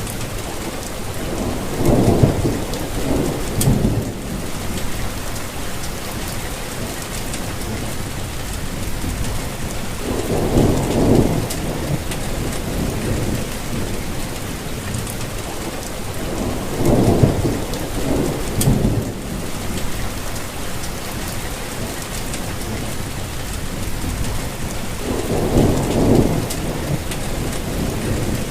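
Steady rainfall hissing evenly, with four short, low rumbles of thunder spaced roughly eight seconds apart.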